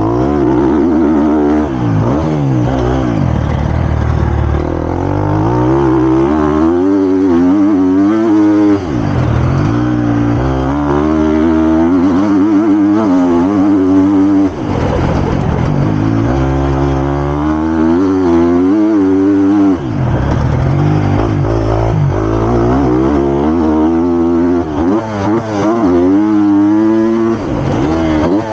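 Triumph TF250-X motocross bike's 250 cc four-stroke single-cylinder engine, heard from on board, revving up and dropping back again and again under hard acceleration and shifts, with short drops in sound at the lifts off the throttle.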